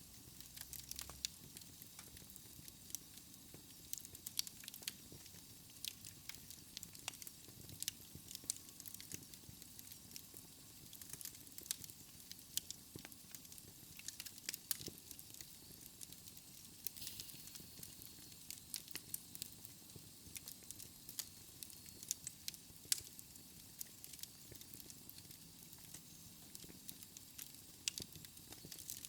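Fireplace fire crackling: scattered sharp pops and snaps over a steady soft hiss.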